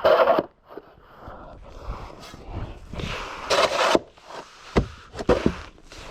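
Snow scraping and crunching in rough bursts, with two sharp knocks about a second apart near the end.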